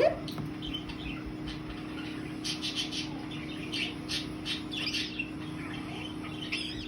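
Indian ringneck parrot making short, high chirps and clicks in scattered clusters, over a steady low hum; a brief rising squeak opens it.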